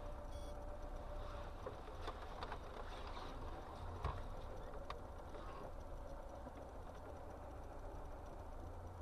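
Faint, steady low rumble of a car driving, recorded by a dashcam inside the car, with a few light clicks and knocks between about two and five seconds in.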